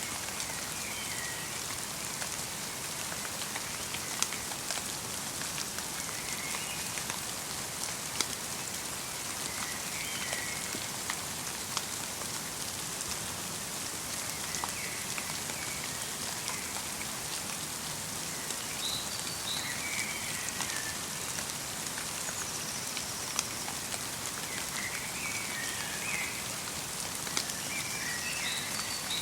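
Light rain mixed with snow falling steadily on a forest, with occasional sharper drips. A small songbird calls in short chirping phrases every few seconds.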